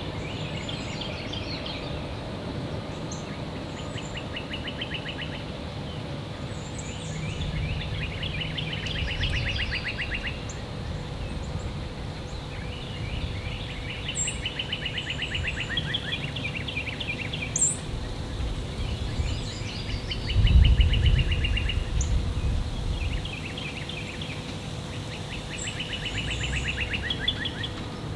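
Songbird singing a rapid trilled phrase about a second and a half long, repeated every few seconds, with short high chips in between. A low rumble swells briefly about two-thirds of the way through and is the loudest sound.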